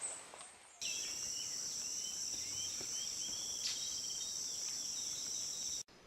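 A bird giving a series of short chirping calls over a steady high-pitched insect buzz, starting abruptly about a second in and cutting off sharply near the end.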